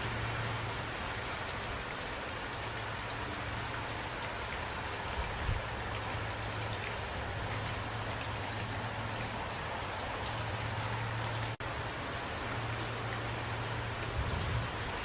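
Steady rain falling, with a low steady hum underneath. The sound drops out for an instant about eleven and a half seconds in.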